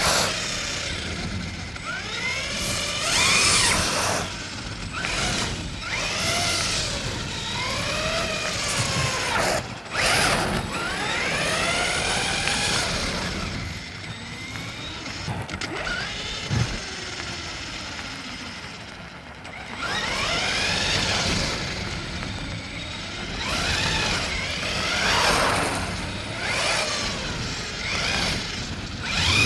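Traxxas Raptor R VXL RC truck's brushless electric motor and geartrain whining, rising and falling in pitch again and again as the truck speeds up and slows on a 3S LiPo, over a hiss of tyres on wet pavement. There is one sharp knock about ten seconds in.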